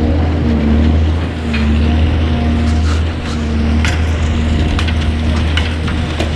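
Boat motor running steadily with a low hum, with scattered sharp clicks and knocks over it, more of them in the second half.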